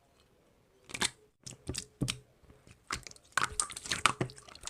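Slime worked by hand, making scattered sticky clicks and crackles that grow denser in the last second and a half.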